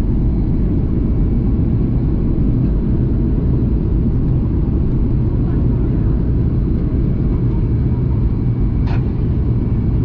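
Steady cabin drone of a Boeing 737 MAX 8 in flight, engine and airflow noise heard from inside the passenger cabin, deep and unbroken. A single sharp click sounds near the end.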